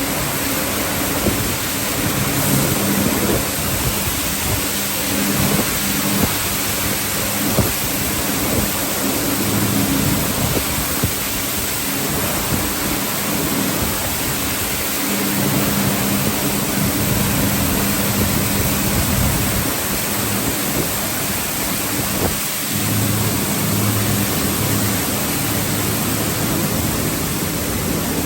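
Automatic car wash tunnel at work: a steady rush of water spraying and pouring over the car, with a low hum from pumps and motors that comes and goes.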